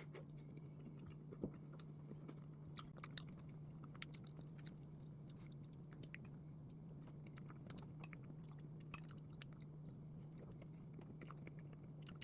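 Faint close-up chewing of soft bread filled with red bean paste, with many small scattered mouth clicks, over a steady low hum.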